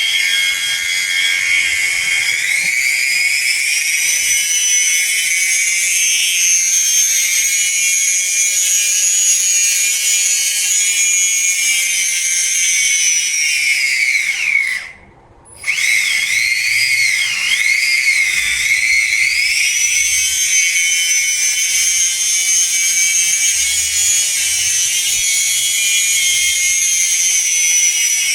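Small electric motor whining at high speed, its pitch rising as it spins up and then holding steady. It winds down and stops about halfway through, then starts again with its speed going up and down a few times before settling back at high speed.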